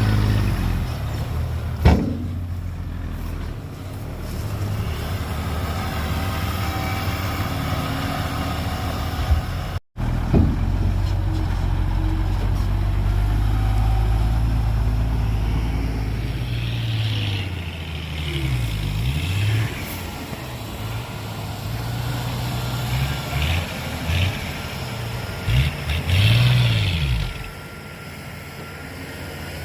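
Heavy diesel engines of earthmoving machines running under load, with a sharp knock about two seconds in. In the second half the revs rise and fall again and again.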